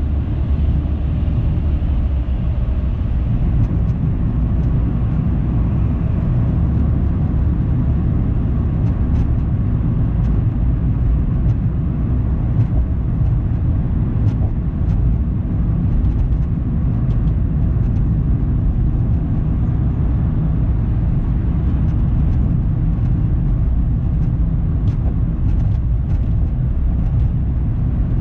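Car driving at steady speed: a constant low rumble of road and tyre noise.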